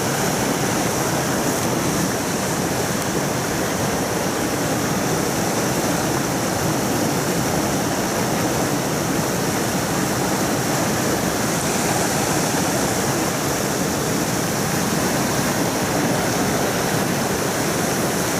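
Mountain stream rushing steadily over rocks, a continuous water noise with no breaks.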